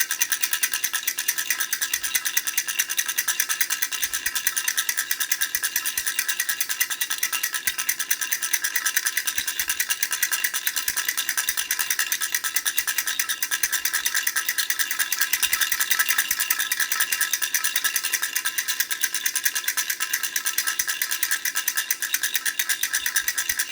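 Plastic teddy-bear baby rattle with four rings, shaken rapidly and continuously in a steady stream of fine clicks.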